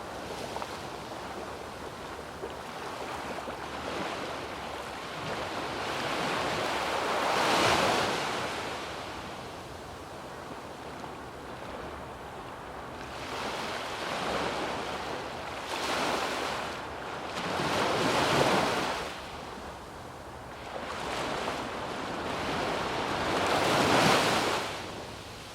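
Sea waves breaking and washing up on a sandy beach, several in turn, each swelling and fading over a couple of seconds. The loudest come about a third of the way in, a little past the middle, and near the end.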